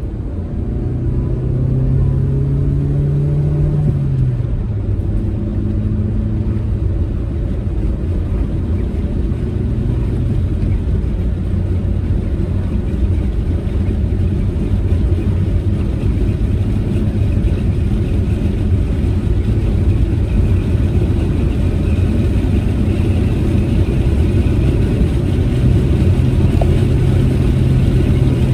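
Proton Saga MC2 four-cylinder engine running while the car drives, under a steady low road and tyre rumble. The engine note rises over the first few seconds, drops suddenly about four seconds in, and holds a steady tone again near the end.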